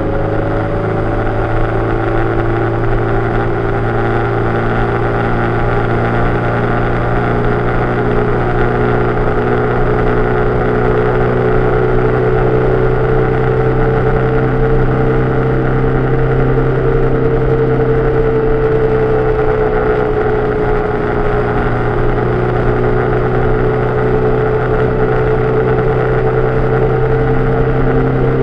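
Vehicle engine running steadily at cruising speed, its pitch drifting slowly up and down, picked up by a camera on the mirror arm. A steady rush of wind and wet-road noise sits under it.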